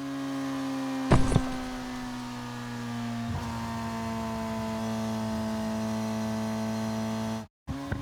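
Steady low hum from a small motor, its pitch sinking slightly. A short clatter comes about a second in, and a softer knock a little after three seconds.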